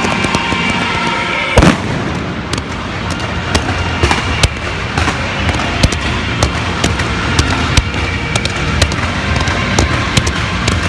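Fireworks display: a rapid, irregular run of sharp bangs and crackles, with one much louder bang about one and a half seconds in.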